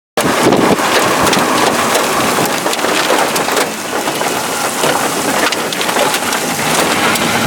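Heavy rain falling, a dense steady noise of drops with many sharp individual hits.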